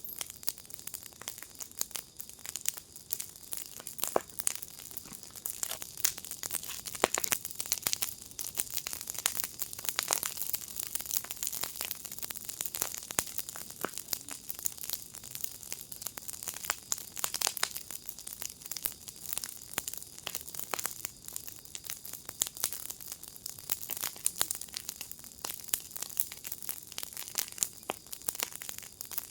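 Wood fire in a firepit crackling and popping steadily, with dense irregular snaps.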